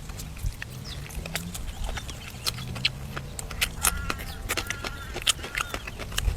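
Close-up wet chewing and lip-smacking clicks of someone eating braised duck, with a few short animal chirps in the background.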